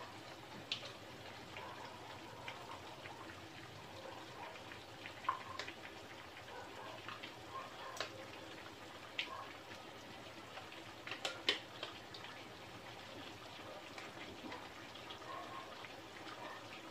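Chicken, carrots and potatoes frying faintly in an aluminium wok: a steady sizzle dotted with scattered sharp crackles and ticks, a few louder pops about eleven seconds in.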